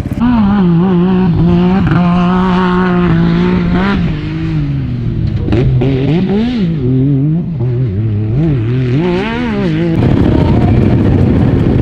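Dirt bike engine being revved and ridden, its pitch held steady for a couple of seconds and then rising and falling again and again with the throttle. About ten seconds in it gives way to a rougher, noisier running sound.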